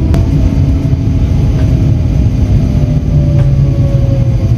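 High-speed passenger train running at speed, heard from inside the carriage: a loud steady rumble with a few faint steady tones, one of them sliding slightly lower late on.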